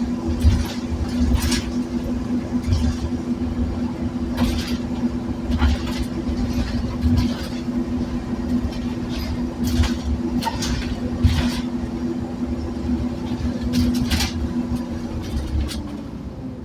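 A Scania N230UD Omnicity single-decker bus heard from on board: its five-cylinder diesel engine runs at a steady pitch under a low rumble, with occasional short knocks and rattles. Near the end the engine note drops away.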